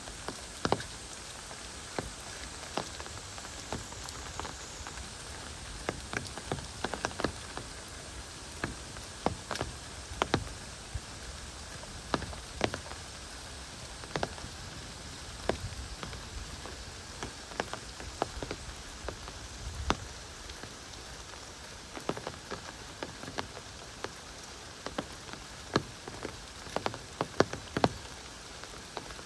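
Heavy rain: a steady hiss of rainfall with many sharp, irregular drop strikes close by.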